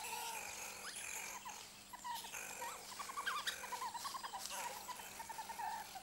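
Banded mongooses chirping and peeping: many short, high calls in quick runs, denser in the middle, the contact calls a pack keeps up while foraging.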